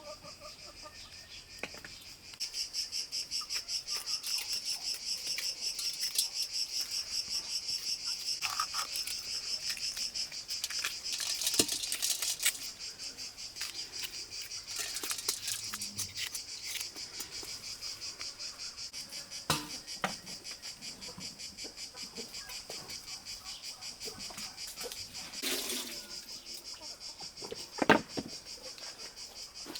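Crickets chirping steadily in a fast pulsing trill, about three pulses a second, louder from a couple of seconds in. A few short knocks come over it, the sharpest near the end.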